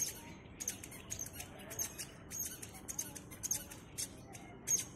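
Small birds chirping: short, high, squeaky calls repeating about two or three times a second.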